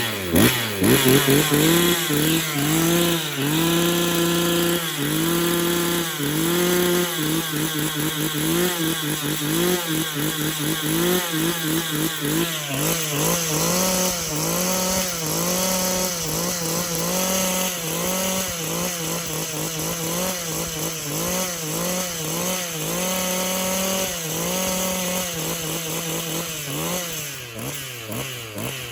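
Two-stroke chainsaw running with its bar and chain removed, revved up in short blips again and again between steadier stretches, to check whether the oil pump feeds bar oil out of the oiler port.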